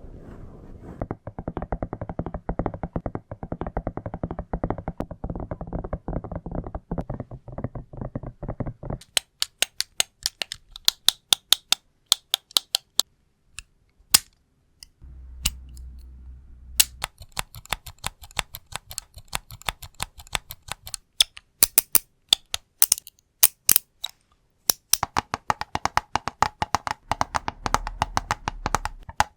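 ASMR tapping and scratching on hard objects: first a dense, muffled rapid scratching, then crisp, sharp taps in quick bursts with short pauses between.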